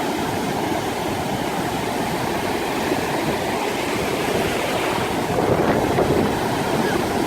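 Surf of a stormy sea breaking and washing onto a sandy beach, a steady rushing that swells a little about five and a half seconds in, with wind rumbling on the microphone.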